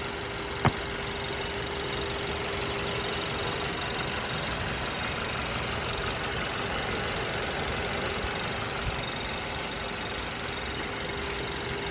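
2013 Ford Transit Connect engine idling steadily after its water pump has been replaced, with a faint steady whine over it. A single sharp click comes near the start.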